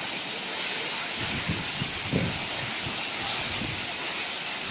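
Waterfall rushing: a steady, even wash of falling water, with a few faint low bumps around two seconds in.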